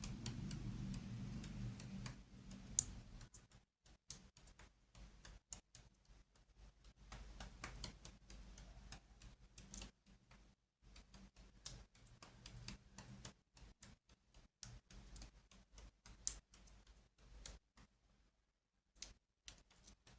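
Faint, irregular light clicks and taps, with a low hum in the first three seconds.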